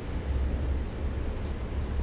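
Steady low rumble of wind buffeting the microphone, with an even hiss above it.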